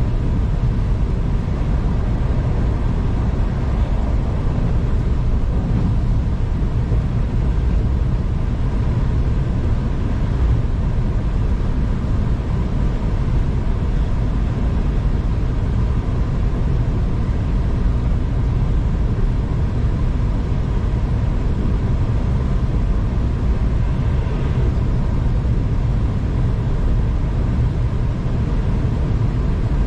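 Steady rumble of a V/Line passenger train running along the line, heard from inside the carriage, with a faint constant hum above the low roar.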